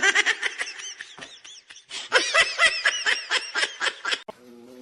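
A person laughing hard: a rapid run of high-pitched laughs that cuts off abruptly near the end.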